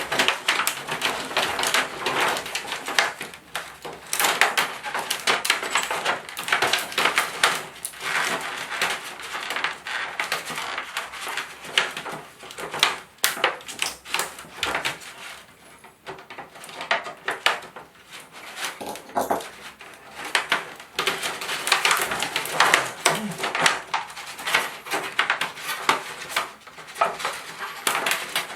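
Quick, irregular clicks, taps and clatter of plastic and metal LED TV parts being handled and pried apart, with a quieter stretch around the middle.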